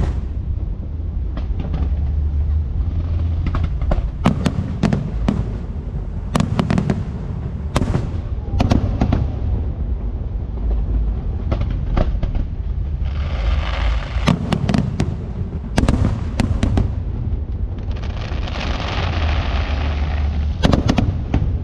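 Fireworks show: shells bursting with sharp bangs at irregular intervals over a low rumble, with two spells of dense crackling, one a little past halfway and one near the end.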